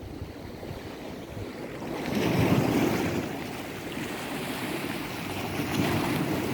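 Sea waves washing ashore, with wind buffeting the microphone; a wave swells louder about two seconds in.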